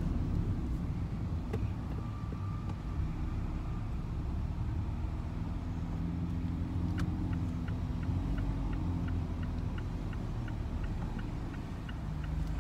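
Ferrari sports car driving with the roof open: a steady low engine and road rumble, with the engine's pitch audible in the middle. A light regular ticking, about three a second, comes in about halfway through and stops shortly before the end.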